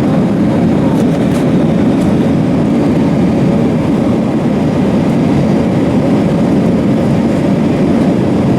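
Steady low rumble inside the cabin of an Airbus A320: engine and airflow noise at an even level.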